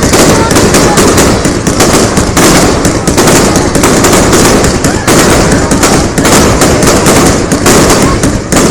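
Fireworks display going off in a loud, dense barrage of bursts and crackle, one right after another with no let-up.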